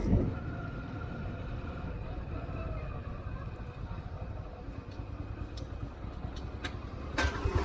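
Bajaj CT 100's small single-cylinder engine running as the motorcycle is ridden, a steady low rumble. A sharp knock comes about seven seconds in.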